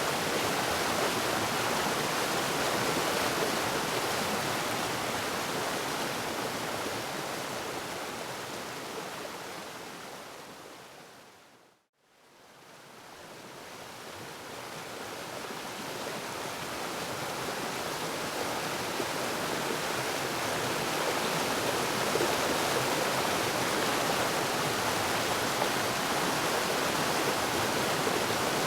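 Waterfall rushing as a steady roar of falling water, fading gradually to silence about twelve seconds in and fading back up over the next several seconds.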